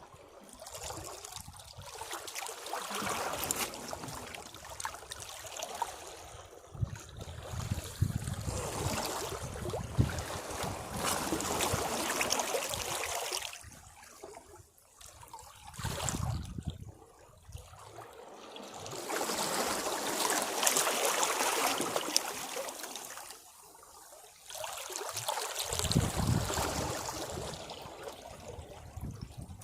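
Sea waves washing against rocks, each surge rushing in and draining away, in swells a few seconds apart with short lulls between.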